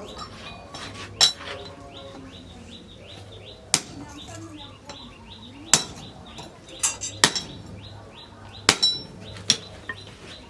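Hand hammer striking hot steel on an anvil, giving sharp ringing clinks at uneven intervals, a few of them close together, over a low steady hum.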